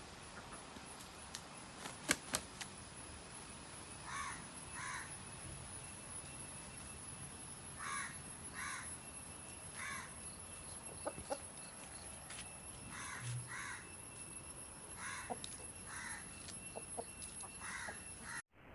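Birds calling in short pairs of calls, a pair every two to three seconds, with a couple of sharp knocks about two seconds in.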